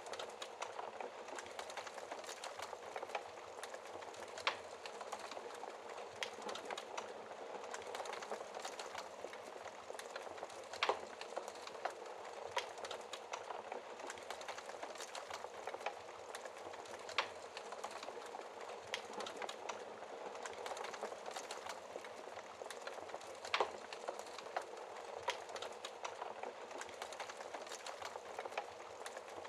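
Wood fire burning in a fireplace, crackling steadily, with a sharper pop every few seconds.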